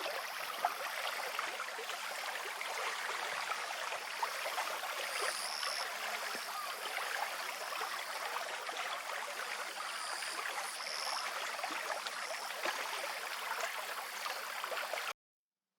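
Running water from a small stream or drainage channel, a steady, dense burbling with a few short high-pitched notes in the middle.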